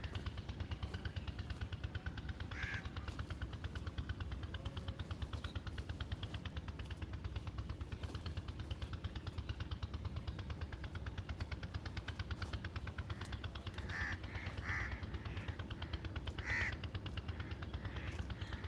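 A bird calling outdoors: one short call about three seconds in, then three calls in quick succession near the end, over a steady fast pulsing background and a low rumble.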